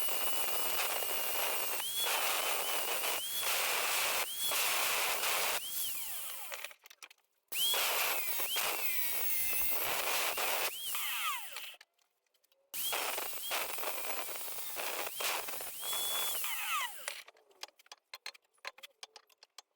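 A hand-held power tool run in three spells, separated by short pauses, with a hissing cutting or drilling noise. Its motor whine dips and rises again about once a second as the trigger is eased and squeezed, and each spell ends with the motor winding down. A few light clicks follow near the end.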